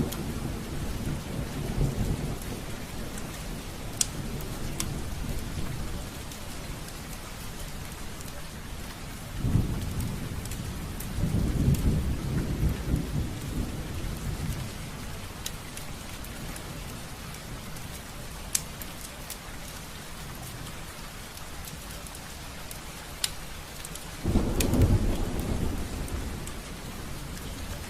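Steady rain pattering on a window pane, with now and then a single sharp drop tick. Low thunder rumbles swell and fade several times: at the start, twice in the middle, and once more loudly near the end.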